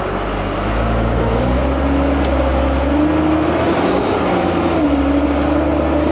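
Heavy-equipment diesel engine working hard under load, its pitch rising, dipping near the end and climbing again as a haul truck stuck in swamp mud is pulled free.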